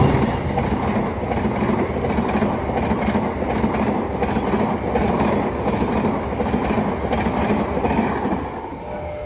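Express passenger train of stainless-steel coaches behind a CC206 diesel locomotive passing close by at speed: steady wheel-on-rail noise, dropping away near the end as the last coaches go by.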